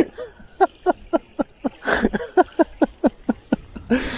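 Ravens giving a rapid series of short calls, several a second, each falling in pitch, as they squabble over a fish.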